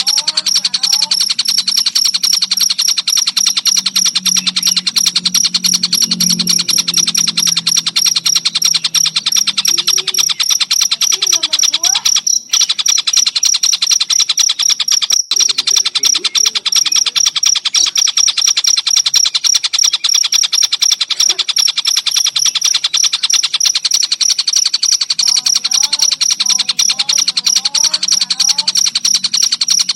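A cricket chirping in a fast, unbroken trill of pulses throughout, with a lower bird's calls coming and going among it: a tengkek buto recording used as masteran for training songbirds. The sound breaks off for an instant twice near the middle.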